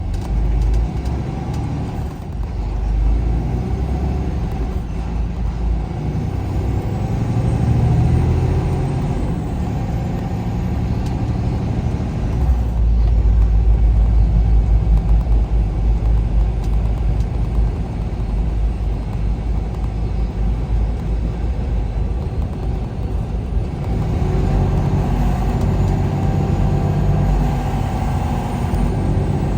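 Semi truck driving on the road, its engine and tyres making a steady low rumble that swells louder about halfway through.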